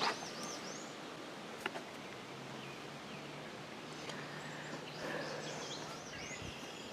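Outdoor ambience with small songbirds calling: quick series of high, arching whistled notes near the start and again from about four seconds in. A single sharp click a little under two seconds in.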